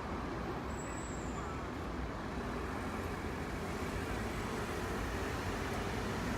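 Steady low background rumble of city traffic and railway surroundings, with no train close by.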